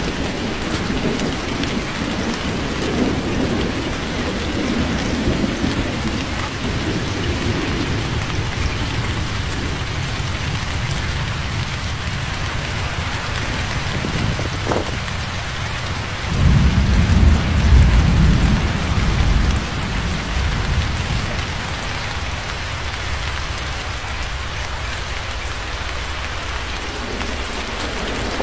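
Steady heavy rain falling, with rolling thunder: low rumbles in the first few seconds and a louder, deep peal of thunder from just past halfway that rumbles on for a few seconds.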